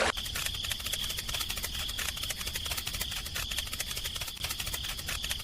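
A small electric motor running steadily with a high whine and a fast, even clicking, like a toy gearbox.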